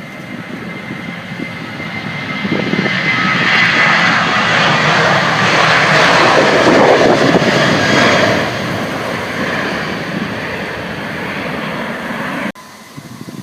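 Boeing 737-800's CFM56 jet engines at takeoff power as the airliner climbs past. The roar swells to a peak about six seconds in and then fades, with a high steady whine at the start. It cuts off abruptly near the end, leaving wind noise.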